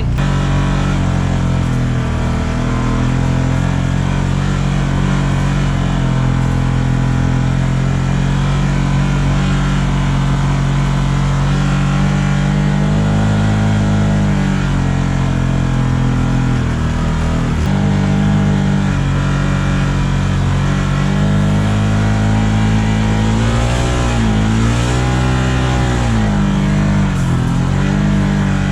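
A vehicle engine running hard under steady throttle. Its pitch drops and climbs again several times, mostly in the second half, as the throttle is eased off and opened again.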